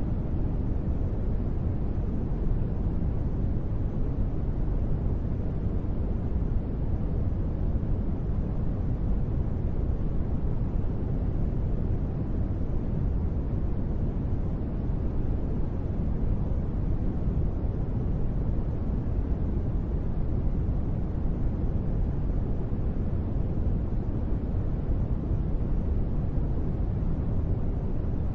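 Steady, even, deep noise with most of its weight low and little hiss on top, with no separate drops, ticks or tones: a continuous sleep-noise track billed as gentle rain.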